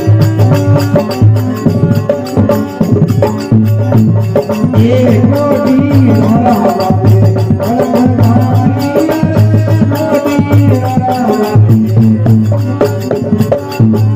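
Marwari folk devotional bhajan music: steady percussion keeps an even rhythm under sustained melodic notes, with a wavering, gliding melody line through the middle.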